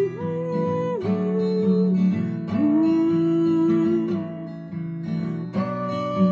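Acoustic guitar strumming chords, one stroke about every second, under a held wordless vocal line that slides between long notes.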